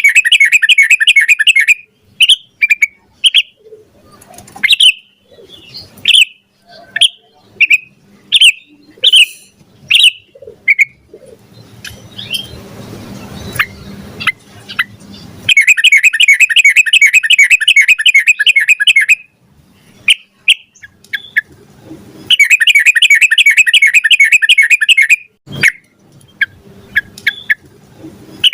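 Yellow-vented bulbul (trucukan) singing: long, fast rolling trills of several seconds each, the 'ropel' song, with bouts of loose single chirps between them. Near the end there is one sharp click.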